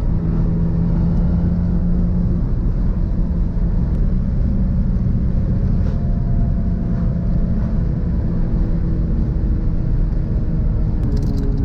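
Car engine pulling steadily under load with road and tyre rumble, heard from inside the cabin while driving. A steady engine note holds for the first couple of seconds, then settles into a steady drone.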